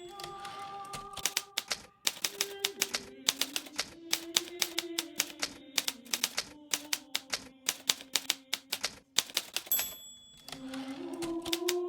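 Hermes Baby manual typewriter being typed on: fast irregular runs of key strikes, with brief pauses about two seconds in and near the end. A short high ring comes just before the second pause, and soft sustained tones sit beneath the typing.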